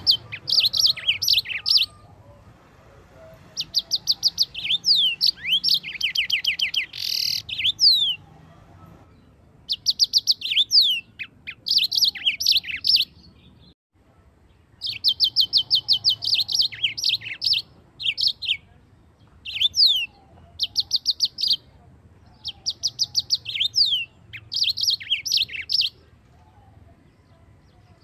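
Yellow-fronted canary (Mozambique canary) singing in repeated phrases of fast trills and quick downward-slurred whistles. The phrases last from about one to four seconds, with short pauses between them.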